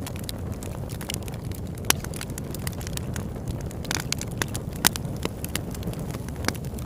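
Campfire burning: a steady low rush of flames with scattered crackles and sharp pops of burning wood, a few louder pops standing out.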